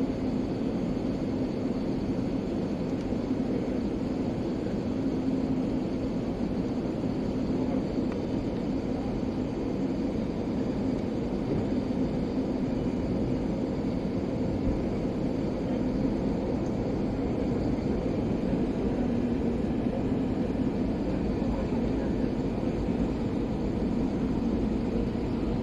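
Airliner cabin noise: a steady drone of engines and airflow, with a faint held hum low in pitch and no change in level.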